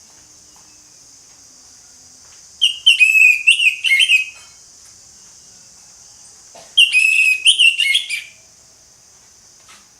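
Orange-headed thrush singing loudly: two quick warbling song phrases of about a second and a half each, a few seconds apart, over a steady high hiss.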